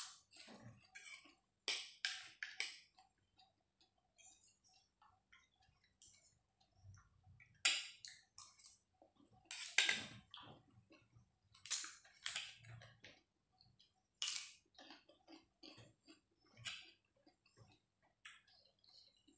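Close chewing of raw vegetables and rice noodles: irregular crisp crunches in short clusters with pauses between bites.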